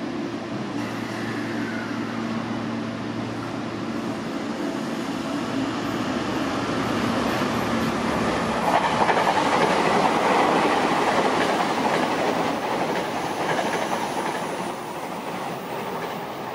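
Seibu 6000 series electric commuter train pulling out of a station. It hums steadily at first, then the noise of its wheels and motors builds as the cars gather speed past the platform, loudest a little after the middle, and eases slightly near the end.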